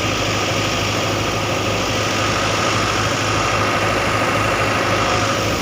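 An engine running steadily at constant speed, an even low hum with no revving, typical of farm machinery working the wheat harvest.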